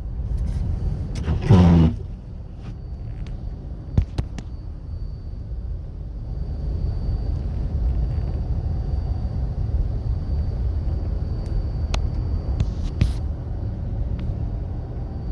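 Steady low vehicle rumble. A short, loud pitched sound comes about one and a half seconds in, and a few sharp clicks are scattered through.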